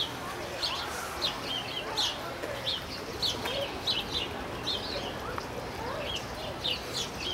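Small birds chirping, short high chirps repeating a few times a second.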